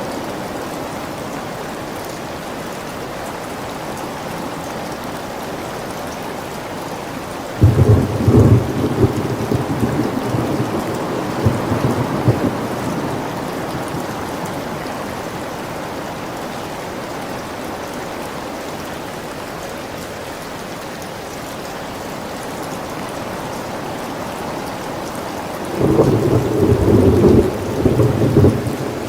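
Steady rain with two rolls of thunder: one breaks in suddenly about eight seconds in and rumbles on for a few seconds, and another comes near the end.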